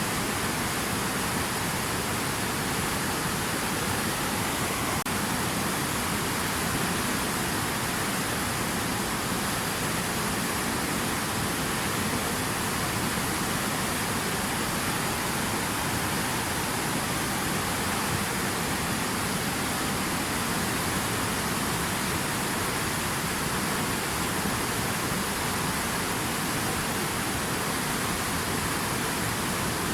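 Steady rushing water, an even hiss with no breaks or changes in level.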